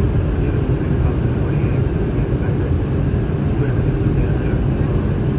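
Steady in-flight cabin noise of an Airbus A319: a constant low roar of airflow and CFM56 engines.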